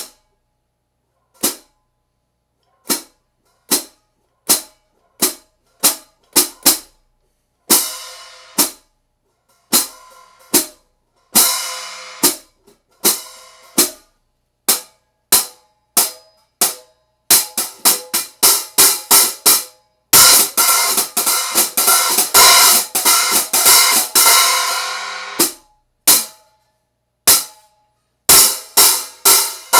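A pair of 1950s Paiste-made Ludwig 14-inch nickel silver hi-hat cymbals being played: single crisp chicks and short open splashes, spaced out at first and then coming faster. Around two-thirds of the way through they are played open in a long sustained wash before closing back to tight strokes.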